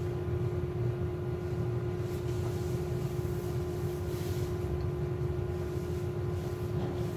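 Steady low mechanical hum with a constant mid-pitched tone running through it, unchanging throughout.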